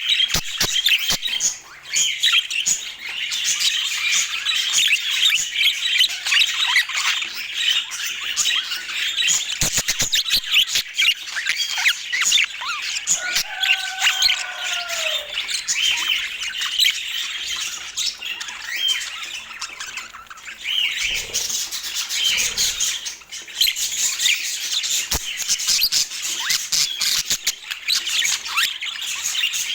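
Budgerigars chirping and chattering continuously, a dense stream of quick warbling chirps and squawks, with one lower, drawn-out call about halfway through.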